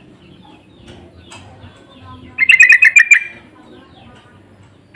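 Yellow-vented bulbul (trucuk) song: one loud, rapid phrase of about eight bubbly notes about two and a half seconds in, lasting under a second, with faint bird calls behind it.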